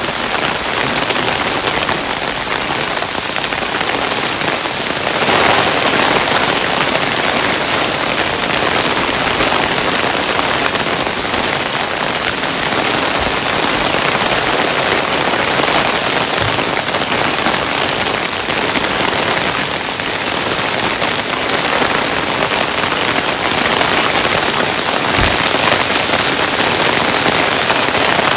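Hailstones pelting down in a dense, steady patter of small hits. A few heavier thuds stand out here and there.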